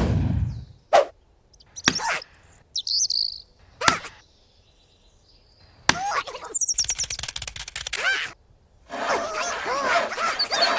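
A run of short, abruptly cut sound clips: a falling swoop at the start and a few sharp clicks, then a quiet gap, then bird-like chirping in two stretches from about six seconds in.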